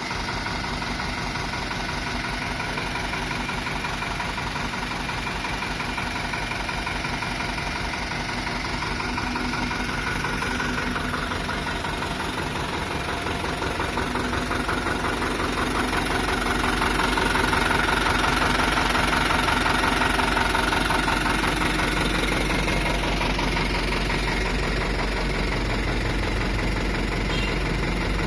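Diesel engine of a 2011 Hino dump truck idling with a steady fast rhythm, growing a little louder about halfway through, then easing back slightly.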